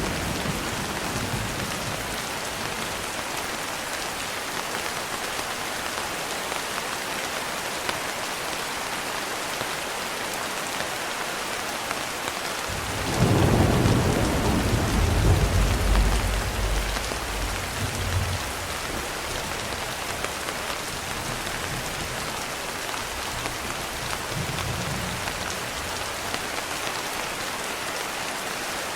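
Steady rain, with a roll of thunder about halfway through that rumbles low for around five seconds and then fades back under the rain.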